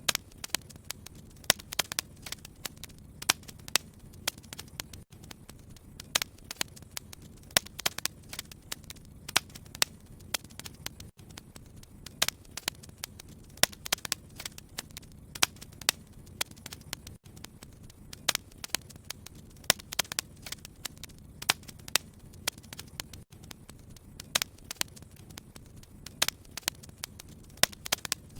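Fireplace fire crackling: frequent sharp, irregular pops and snaps over a low, steady rumble.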